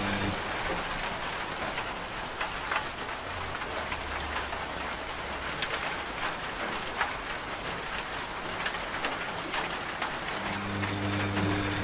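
Steady rain falling, with many small drop ticks. A washing machine's low motor hum cuts out just after the start and comes back near the end, with a brief low hum a few seconds in.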